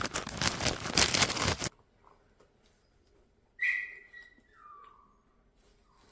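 Plastic packaging crinkling and rustling as the vacuum parts are handled, cutting off abruptly under two seconds in. After a near-quiet stretch comes one short high squeak that slides down in pitch.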